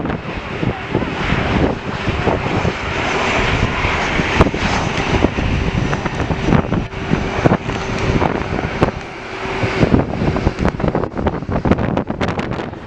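Jet airliner engines running loudly as a plane passes, a steady roar with a faint held tone through the middle, with wind gusts buffeting the microphone.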